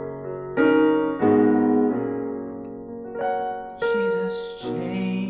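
Slow gospel piano playing sustained chords, a new chord struck every second or so and left to ring and fade before the next.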